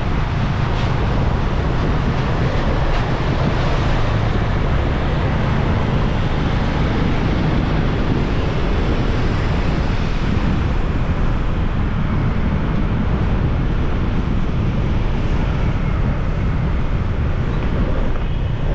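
Riding noise from a moving motorbike: wind rushing over the microphone with engine and road noise, steady throughout.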